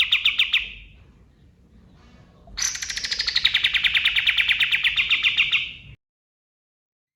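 Male kapas tembak (katem) songbird singing fast trills of evenly repeated sharp notes. One trill ends just under a second in; after a short pause a second trill starts higher, falls in pitch and settles. The sound cuts off suddenly about six seconds in.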